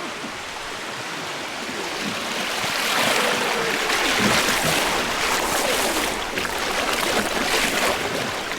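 River water rushing and splashing around a wooden river boat running a small rapid, growing louder about three seconds in.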